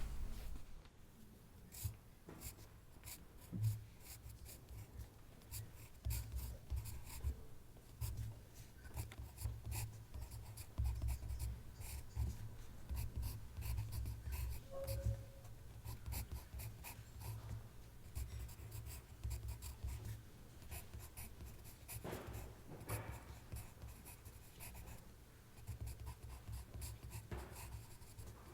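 Handwriting on paper: a pen tip scratching in quick, irregular strokes, over a low, uneven rumble. A brief louder noise comes right at the start.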